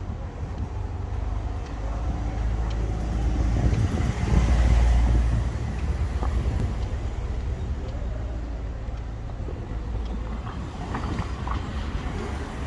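A vehicle passing in the street: a low rumble that swells to a peak about four to five seconds in, then fades back into the street's background hum.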